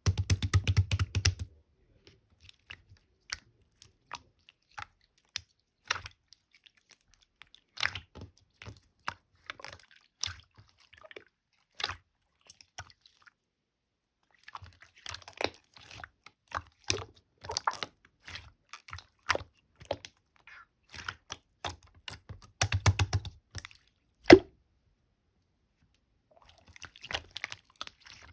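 Slime being squished, pressed and folded by hand, giving irregular sticky clicks and small pops. It comes in dense crackling bursts near the start and about 23 seconds in, with one sharper knock just after.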